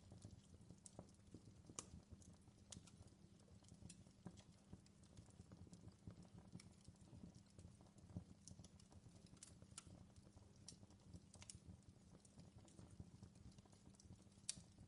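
Faint crackling of a wood fire in a fireplace: irregular sharp pops and snaps over a low, steady rumble.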